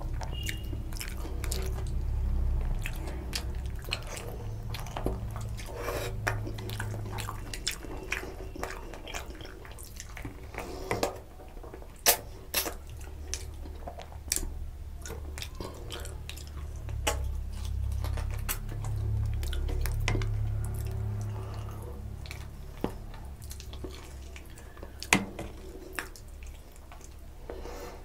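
Close-up eating sounds: wet chewing of rice and curry eaten by hand, with many sharp lip smacks and mouth clicks scattered throughout.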